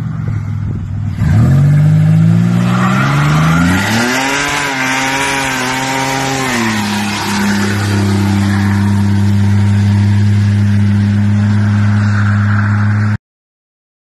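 Turbocharged Ecotec V6 in a Holden Commodore ute revving up for a burnout: the revs climb over a few seconds and hold high with tyre screech, then drop back to a steady lower drone. The sound cuts off abruptly near the end.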